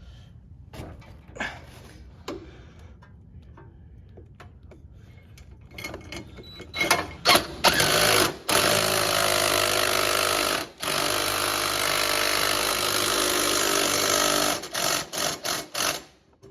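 Metal parts clanking as they are handled, then a handheld power tool driving fasteners: a few short bursts, two long runs of several seconds each, then more short bursts near the end, as the homemade exhaust is fastened onto the mower.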